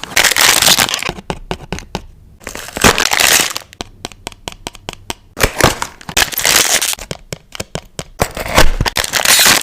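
Paper, stickers and plastic sheets crinkling and rustling as they are handled close to the microphone, in several louder bursts with many sharp crackles between.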